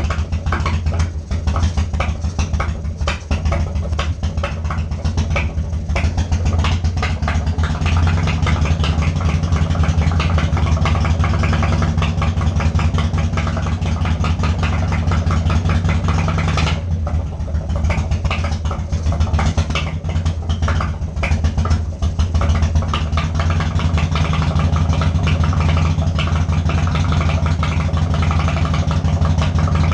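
Harley-Davidson Evolution V-twin engine of a 1995 Wide Glide running at a steady idle with an uneven, pulsing beat, its note dipping briefly a couple of times past the middle. It is running after nine years of sitting, on a newly fitted and set-up replacement carburettor.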